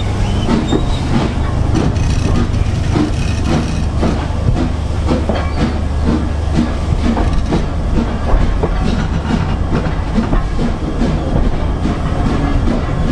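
Heritage steam train running on the Isle of Wight Steam Railway: a steady low rumble with the irregular clatter of wheels over the rails.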